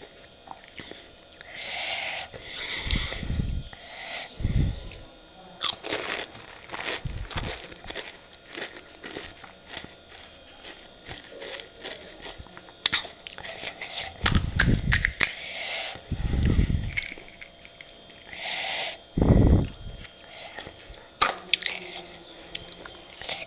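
Close-up chewing and crunching of crisp pani puri shells, with many small crackles and a few heavier low thuds.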